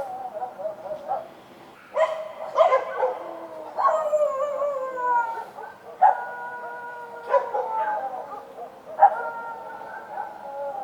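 Street dogs barking and howling, with sharp barks about every second or two, each drawn out into a long cry that falls in pitch.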